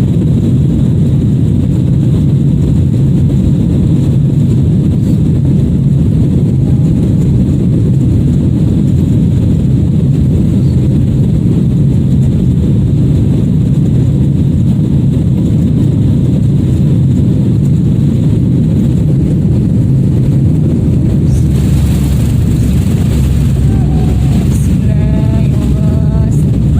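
Airliner engines running, a loud steady low rumble heard from inside the passenger cabin, with faint voices near the end.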